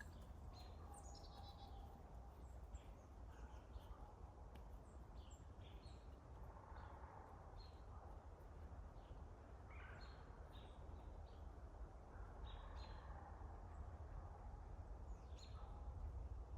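Faint, short, high chirps of small birds, scattered through the whole stretch, over a low steady rumble.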